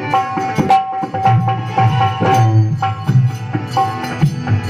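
Instrumental interlude in a Haryanvi ragini bhajan: a melody instrument plays a line of short held notes over the steady beat of a hand drum.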